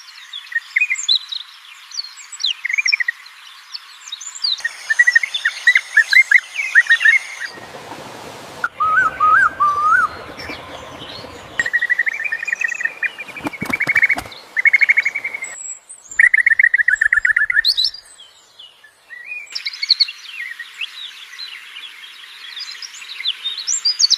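Songbirds chirping and singing: short high chirps and trills in several stretches that change abruptly every few seconds, with a few sharp clicks about fourteen seconds in.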